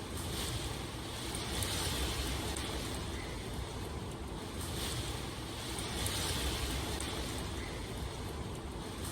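Steady rain ambience: an even rushing hiss over a deep rumble, swelling and easing every few seconds.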